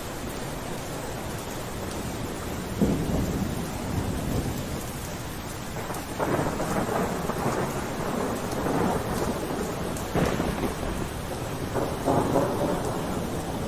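Steady rain, with louder, deeper swells of sound that rise and fade, starting about 3, 6, 10 and 12 seconds in.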